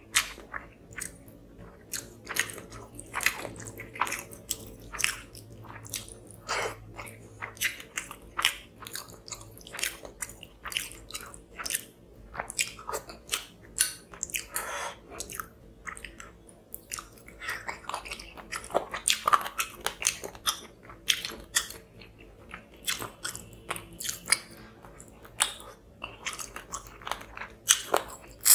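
Close-miked chewing of hand-eaten rice and fish curry, with many short, sharp wet mouth clicks coming irregularly throughout.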